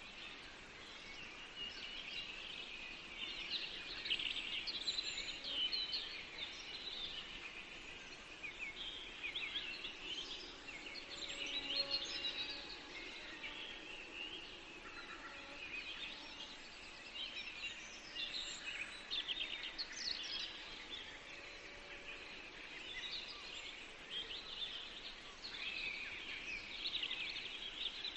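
A chorus of several songbirds singing at once, with many short, high chirps and quick trills overlapping throughout, over a faint steady hiss.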